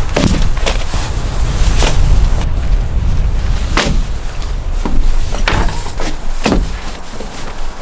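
Strong gusting wind rumbling on the microphone, with tent fabric snapping and flapping in the gusts, about six sharp snaps at irregular intervals.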